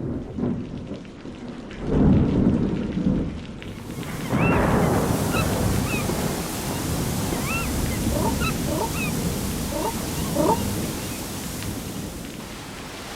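Thunderstorm: a low rumble of thunder about two seconds in, then steady heavy rain. Short high chirps sound repeatedly over the rain.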